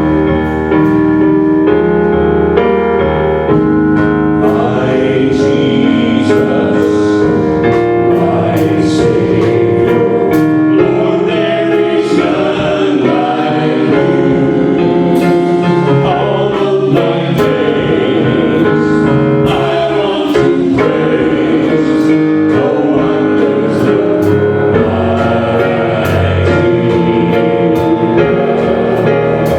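Gospel music: a choir singing with piano accompaniment, loud and steady throughout.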